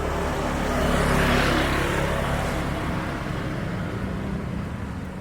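Steady low engine hum, with a louder rushing swell that rises and fades between about one and two and a half seconds in, as of a vehicle going by.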